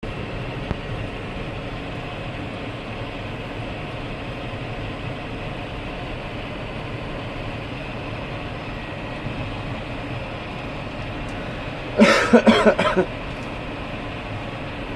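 Tractor engine running steadily, heard as a constant drone from the cab. About three seconds before the end, a brief louder burst of several rapid pulses cuts in for about a second.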